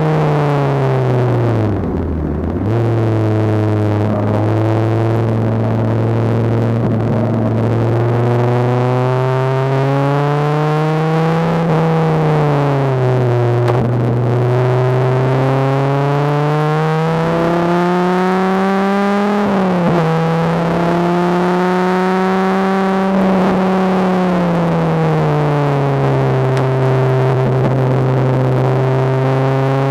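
Dodge Viper RT/10's 8.0-litre V10 heard from inside the cabin under hard driving. The pitch climbs steadily under acceleration and drops suddenly at gear changes, about two seconds in, near the middle and about two-thirds through, then eases off again toward the end.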